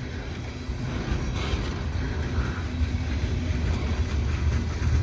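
Freight cars of a passing manifest train rolling by, a steady low rumble of wheels on the rails that grows slightly louder.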